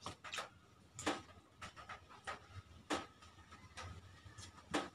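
Close-up eating sounds: a person chewing with wet lip smacks and mouth clicks, about ten short, separate smacks.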